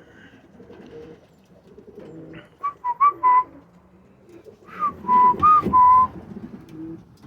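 Two short runs of clear whistled notes, a few quick notes in each, over racing pigeons cooing in the loft.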